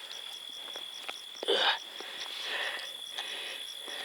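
Crickets at night: one steady high trill and another chirping in a quick, even pulse about three times a second. About a second and a half in there is a short, loud rustle.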